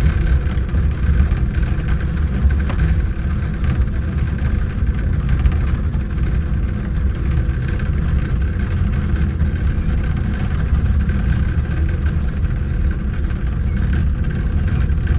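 Small mountain monorail car's engine running steadily while the car descends a steep slope, a low rumble with a faint steady whine above it.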